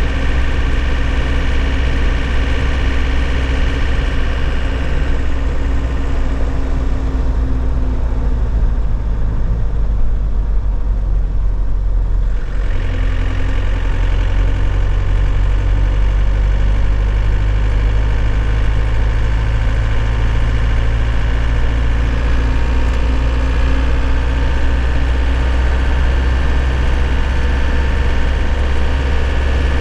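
2001 Nissan Cabstar light truck's engine running, heard from inside the cab. The engine sound eases off for a few seconds near the middle, then picks up again suddenly and runs on steadily.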